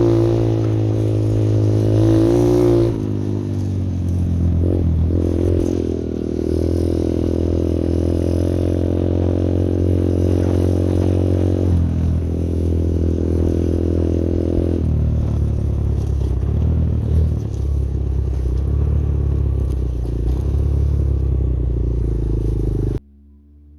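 Pit bike's single-cylinder four-stroke engine running under load, its note rising and falling as the throttle is worked, with shifts in pitch at about 3, 12 and 15 seconds in. Near the end it cuts off suddenly to a faint ringing tone.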